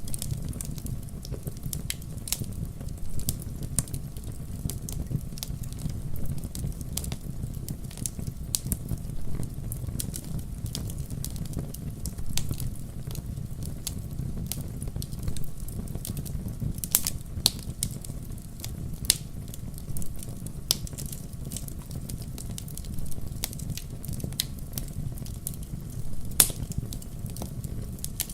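Wood fire crackling steadily in a fireplace: many sharp irregular pops and snaps over a low steady rumble of the flames.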